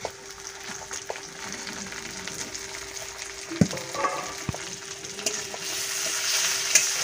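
Chopped tomatoes, onions and green chillies sizzling in hot oil in a kadai, with a few sharp knocks of a spatula as they are stirred. The sizzling grows louder over the last few seconds.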